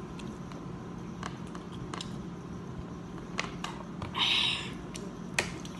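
Small clicks and taps of eating at the table, with a short rustle a little after four seconds, over a steady low hum.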